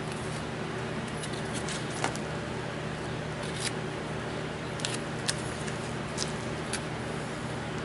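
Scattered light metallic clicks and taps, about six of them, from hand tools and hardware being handled, over a steady low hum.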